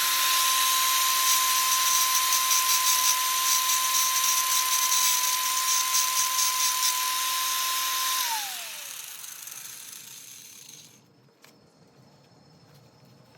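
Power grinder running with a steady high whine while grinding down the rivet heads of a motorcycle drive chain to take links out, with a rough metal-grinding hiss. About eight seconds in it is switched off, and the whine falls away as the disc spins down.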